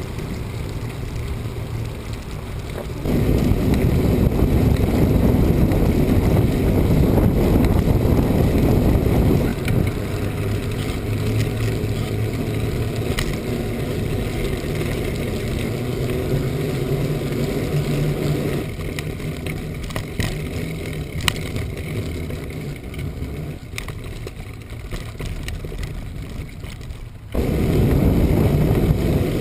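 Strong wind buffeting the microphone: a loud, low rumbling rush that jumps up abruptly about three seconds in, eases off after several seconds, and surges again near the end.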